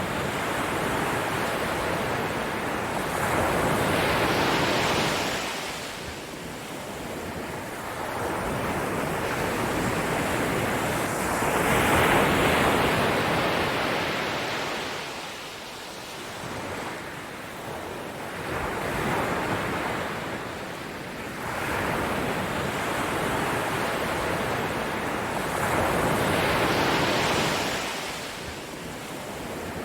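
A soft rushing noise that swells and fades in slow surges, one about every seven to eight seconds.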